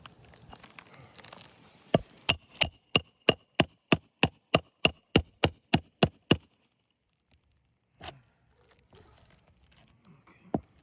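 Hammer driving a roofing nail through an asphalt shingle: a run of about fifteen quick strikes, roughly three a second, each with a metallic ring, then a single knock a few seconds later.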